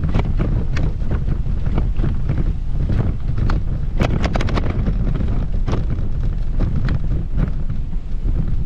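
Wind buffeting the microphone with a heavy low rumble, over a run of short, irregular ticks.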